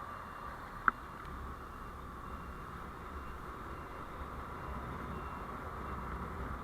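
Steady road and running noise of a moving vehicle picked up by a dashcam: an even hum with a low rumble, and one sharp click about a second in.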